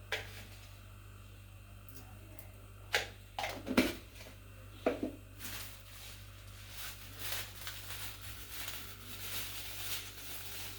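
Kitchen handling sounds: a few sharp knocks and clatters about three to five seconds in, then a longer dry rustling hiss, typical of spices and ingredients being handled and added to a pot. A steady low electrical hum runs underneath.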